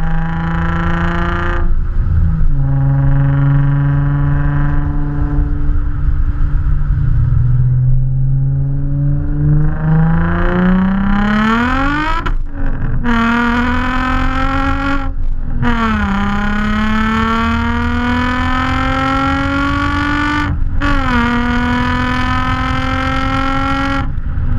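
Car engine and exhaust under way. The note holds steady at first, then climbs as the car accelerates. Several brief breaks follow, each with the pitch dropping and climbing again, like upshifts through the gears.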